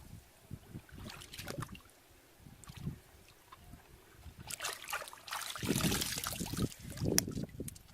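Water sloshing and trickling in irregular bursts, with a louder stretch of splashing a little past the middle.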